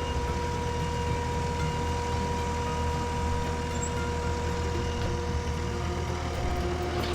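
Skid steer engine running steadily, its pitch stepping down a little about six seconds in.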